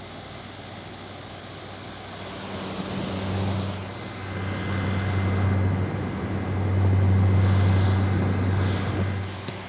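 General Electric (Midea) 5,000 BTU window air conditioner running in cool mode: a fan hiss with the compressor's low hum, which comes in about two seconds in and swells louder and softer several times.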